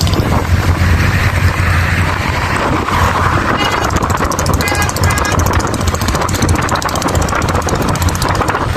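Road traffic: steady engine and road rumble, with a few short horn toots about three and a half to five seconds in.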